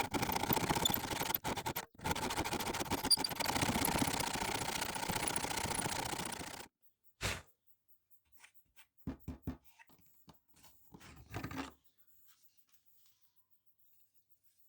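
Steady scraping for about seven seconds that cuts off suddenly, followed by several short, light knocks.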